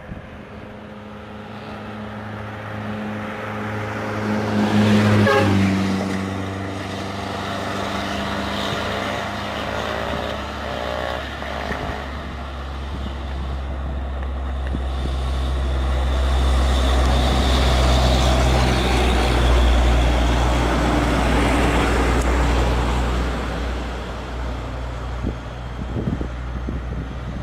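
Heavily loaded diesel trucks labouring up a hill. One engine rises to a loud peak and drops sharply in pitch about five seconds in. Then a deeper engine rumble builds, is loudest about two-thirds of the way through, and fades.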